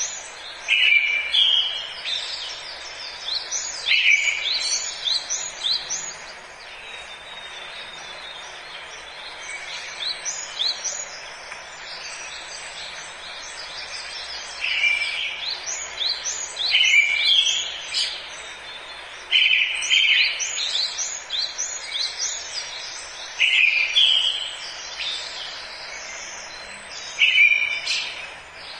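Songbirds singing over a steady background hiss. Short song phrases of quick notes come every few seconds, with a quieter stretch of only the hiss near the middle.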